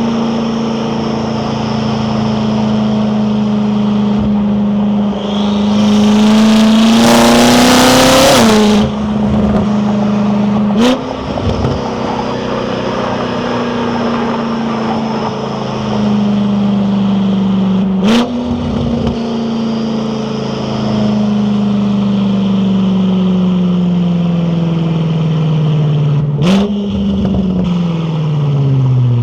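BMW F10 M5 Competition's twin-turbo V8 with an Akrapovic exhaust, pulling hard with rising revs for about three seconds and then lifting off. As the car slows, the gearbox downshifts three times. Each shift brings a sharp crack from the exhaust and a jump in revs, and the engine note sinks again between shifts.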